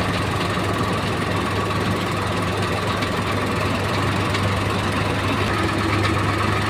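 Tractor engine running steadily with a low drone.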